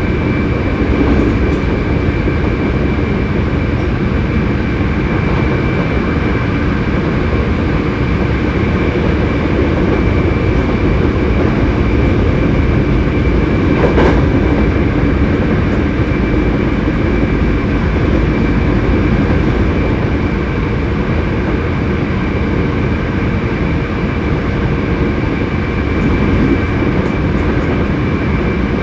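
Hankyu 7300 series electric train car running at steady speed, heard from inside: a dense rumble from the wheels and running gear with a constant high-pitched whine over it. This car is known for an unusual running noise. One sharp click comes about halfway through.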